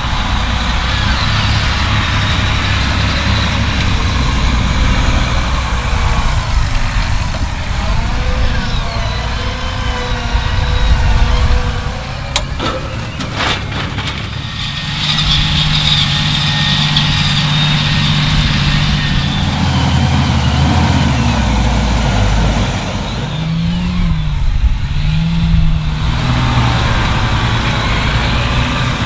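Large farm-machinery diesel engines, tractors or harvesters, running under work, the sound changing abruptly a few times. About two-thirds of the way through, an engine revs up and back down twice in quick succession.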